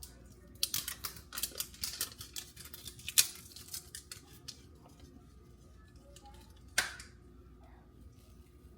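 Spice shaker being shaken over raw ground beef: a quick run of rattling, clicking strokes for about three seconds, then a single sharp click about seven seconds in.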